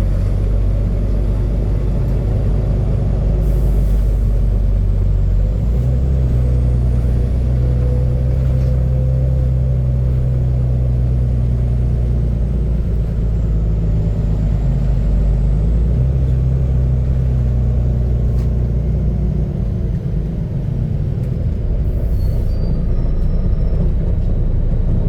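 Engine of a Volvo B9TL double-decker bus running loudly while under way, heard on board; the loud exhaust note comes from a burst exhaust. The engine note steps up about six seconds in, changes again about sixteen seconds in and dips briefly near twenty seconds.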